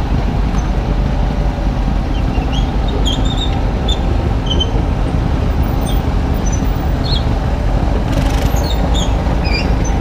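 Kubota U35-3 mini excavator's diesel engine running steadily under the operator's seat as the machine tracks slowly, a dense low rumble, with short high squeaks scattered through it.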